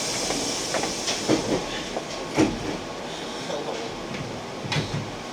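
Keihan electric train running out of a station, heard from on board: a steady running rumble with irregular knocks as the wheels cross rail joints and points.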